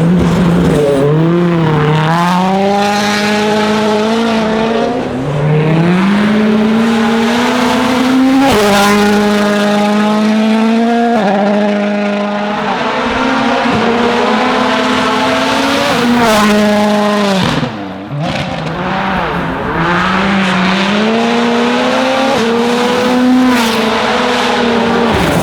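M-Sport Ford Fiesta WRC rally car's 1.6-litre turbocharged four-cylinder engine driven hard, the revs climbing through the gears and dropping sharply at shifts and lifts several times over.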